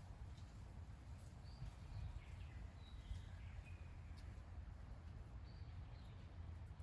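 Faint, short bird chirps, a few in the first half and a couple more near the end, over a steady low rumble.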